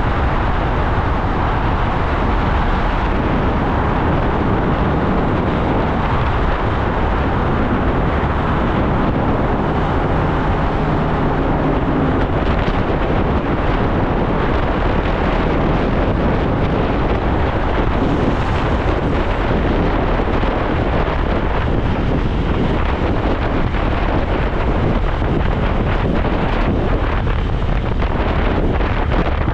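Motorcycle on the move: wind rushing over the microphone, with the bike's engine running underneath at a steady loud level.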